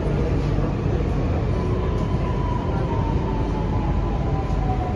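Inside a CRRC Puzhen Type-A metro car running on the line: a steady low rumble of wheels on rail, with a single traction-motor whine that falls slowly in pitch as the train slows.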